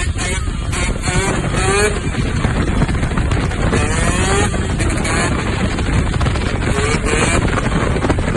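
Motocross dirt bike engines revving hard, their pitch climbing again and again as they accelerate, over a dense low rumble.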